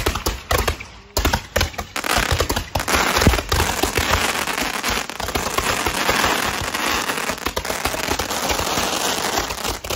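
Handheld firework tubes going off: a few separate sharp bangs, then from about two seconds in a dense, continuous crackle of many spark fountains and pops firing together.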